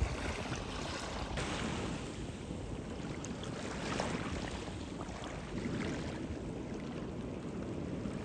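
Wind rushing over the microphone in steady, gusty noise, with a surf-like wash beneath it.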